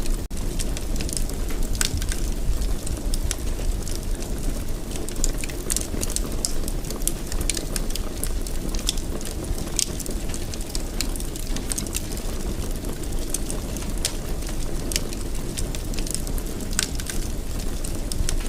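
Wood fire burning in a fireplace: irregular sharp crackles and pops, several a second, over a steady low rumble of flames, with a momentary dropout just after the start.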